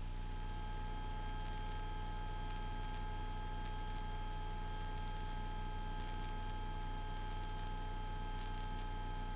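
Steady high-pitched electronic whine in the aircraft's audio, a strong high tone with several fainter tones under it, coming on at the start. Under it runs the low steady hum of the Cessna 172S in flight.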